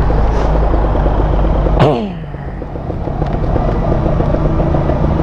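Kawasaki Ninja 150 RR's two-stroke single-cylinder engine running while riding, with heavy low wind rumble on the helmet camera. About two seconds in, a sharp sound falls quickly in pitch and the engine sound briefly drops before picking up again.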